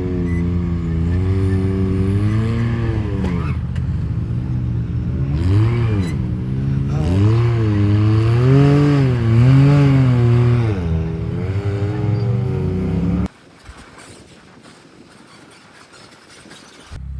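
Off-road Jeep's engine under load over rough terrain, its pitch rising and falling again and again as the throttle is worked. The engine sound cuts off suddenly about 13 seconds in, leaving only a faint sound.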